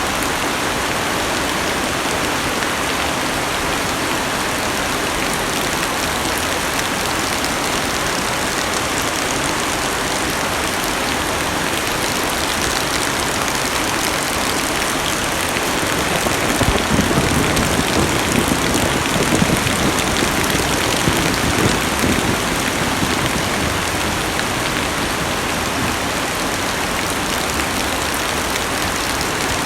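Heavy rain drumming steadily on a car's roof and windows, heard from inside the cabin. A louder, deeper patch swells in for several seconds past the middle.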